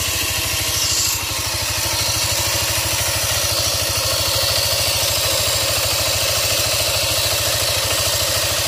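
Yamaha NMAX 155 scooter's single-cylinder engine idling steadily with a fast, even low pulsing and a rough noise, the rough sound from the CVT that the owner is tracing.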